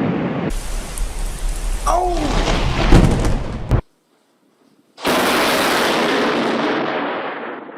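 Thunder from close lightning strikes with rain noise, loudest in a sharp crack about three seconds in. The sound cuts off into a second of silence, then another rumble of thunder starts suddenly and fades away.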